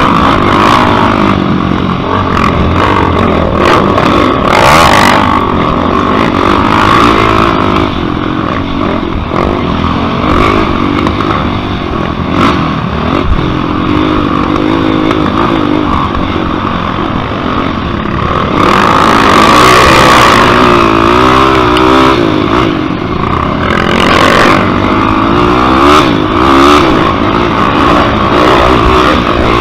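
Yamaha YFZ450-based quad's single-cylinder four-stroke engine revving hard, its pitch rising and falling again and again as the machine is ridden around a race track, with repeated stretches of rushing noise.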